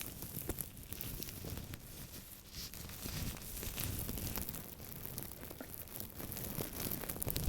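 Close-miked scratching and handling of an object, a dense run of small irregular crackles and crinkles.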